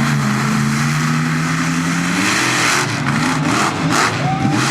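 Swamp Thing monster truck's engine at full throttle, its note held steady for about two seconds before dropping off as it launches at the jump. Then comes a run of sharp impacts as the truck lands on and over a row of cars.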